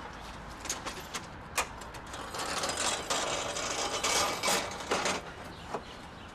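A mechanism being worked: a few sharp metallic clicks, then a few seconds of denser rattling and clicking that stops near the end.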